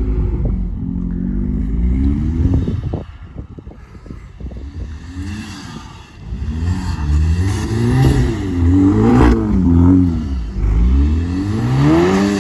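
A 2018 VW Golf R's turbocharged four-cylinder engine sounding through a Borla valved cat-back exhaust under acceleration. The note climbs, eases off to a quieter stretch a few seconds in, then rises and drops in pitch again and again over the second half.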